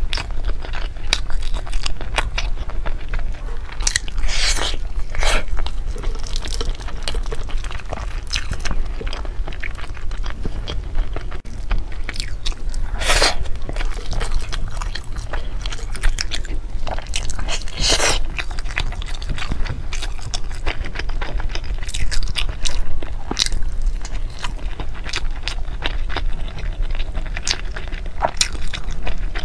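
Close-miked chewing of a savoury meat glutinous-rice dumpling (zongzi): sticky, wet mouth sounds with many small clicks. A few longer, louder bursts come as the sticky rice is torn apart by hand.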